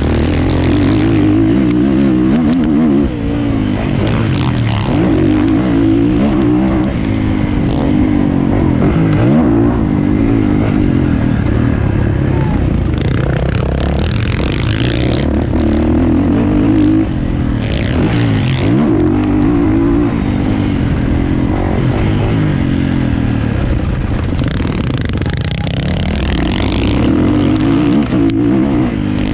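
450cc four-stroke motocross bike engine revving hard at racing pace, its pitch rising and falling again and again as the throttle opens and shuts through the gears.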